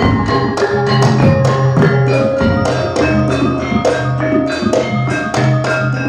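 Javanese gamelan music accompanying a jathilan dance: struck metallophone keys ringing in rapid, even strokes over drum and sustained low gong-like tones.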